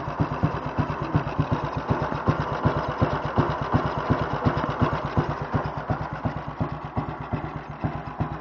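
1937 NSU 201 OSL's single-cylinder four-stroke engine idling, an even train of exhaust beats at about six a second.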